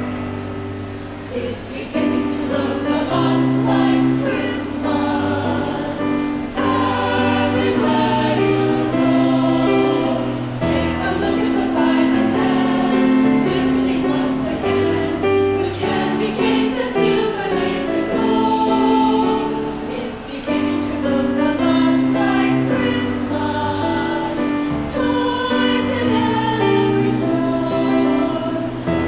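Choir singing a Christmas piece with piano accompaniment.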